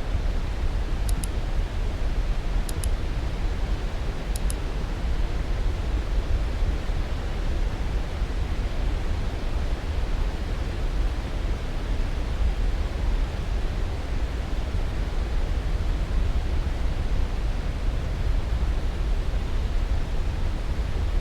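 Steady, even rushing white noise, deepest and strongest in the low end, with no change throughout. Three faint pairs of short, high ticks sound in the first five seconds.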